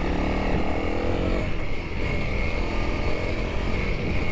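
Honda CRF300L dual-sport motorcycle's single-cylinder engine running under throttle while ridden. Its engine note is clearest in the first second and a half, then blends into rougher running noise.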